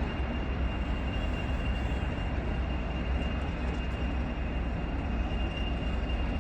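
Heritage diesel locomotive running steadily as it rolls away along the line, a constant engine rumble with a steady high whine over it.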